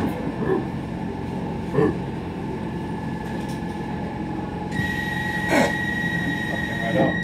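Docklands Light Railway train running, heard from inside the carriage: a steady rumble from the wheels on the track, with a few brief sharp sounds. A steady high whine starts about two-thirds of the way through and holds.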